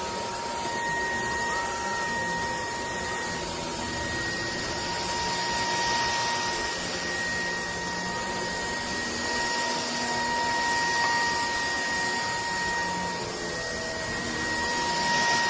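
JELLYPIG cordless stick vacuum cleaner running steadily, its motor giving a high, even whine over the rush of air as it sucks up dirt from a floor.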